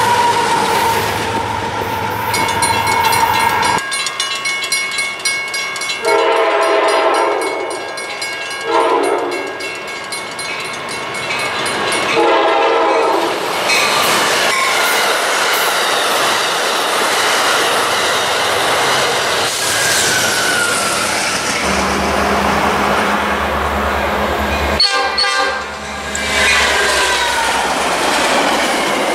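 Trains passing at speed: a freight train rolls by, then a diesel train horn sounds several blasts, and passenger trains rush past with wheels clattering over rail joints and a low engine rumble near the end.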